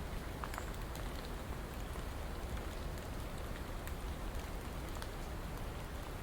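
Steady rain falling, an even wash of noise with individual drops ticking on a surface throughout.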